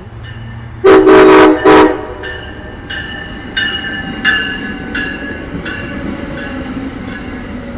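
MARC commuter train's MP36PH diesel locomotive sounding its horn in two loud blasts, one longer and one short, about a second in. Then a bell rings in a steady rhythm, about once every 0.7 s, over the rumble of the train rolling past.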